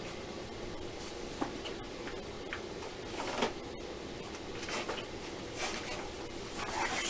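Light handling noises, a few scattered short rustles and soft knocks, over a steady low hum.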